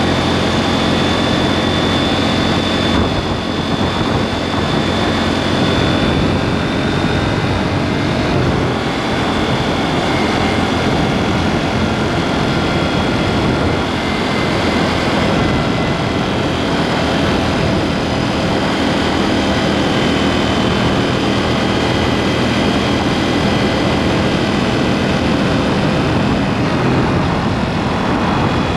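KTM 790 Duke's parallel-twin engine running under way through an aftermarket SpeedPro Cobra SPX exhaust, picked up from under the pillion seat. The engine note is loud and steady, with small rises and falls in pitch.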